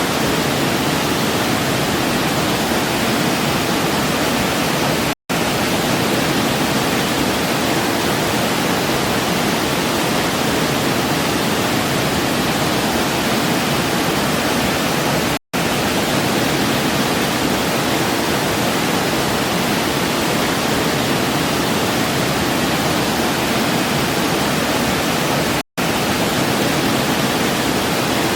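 Waterfall rushing, a steady full-range roar of falling water. It cuts out for an instant three times, about ten seconds apart.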